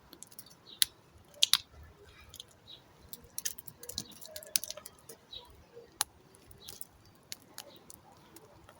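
Bar soap being cut: a run of crisp cracks and crunches, the sharpest about one and a half seconds in.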